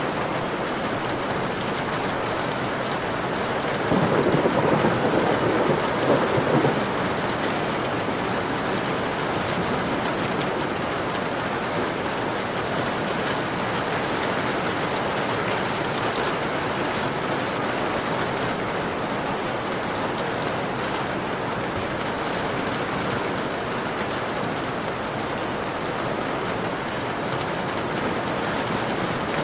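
Steady heavy rain pattering on a window. A roll of thunder rumbles about four seconds in and lasts about three seconds.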